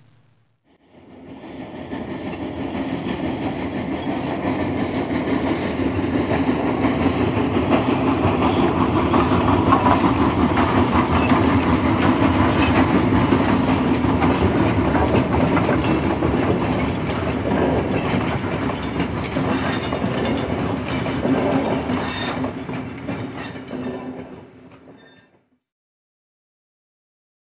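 A train rolling past on its track, a rumble with many sharp wheel clicks. It swells up over the first few seconds, is loudest in the middle, and fades away about 25 seconds in, leaving silence.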